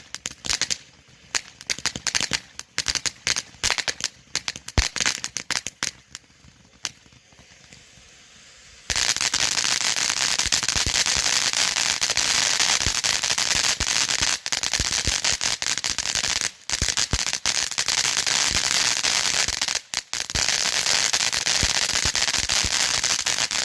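Large consumer firework fountain burning: scattered sharp pops and crackles at first, then about nine seconds in a dense, continuous crackling spray starts suddenly and keeps going, with two brief dips, until it cuts off at the end.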